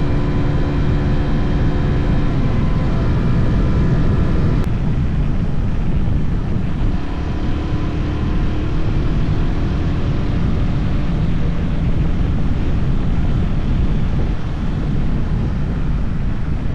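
Motorcycle engine running while riding, its pitch shifting a couple of times with the throttle, under a steady rush of wind noise.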